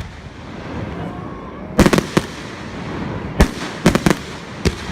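Fireworks going off: about seven sharp bangs, the first about two seconds in, coming in quick clusters of two or three.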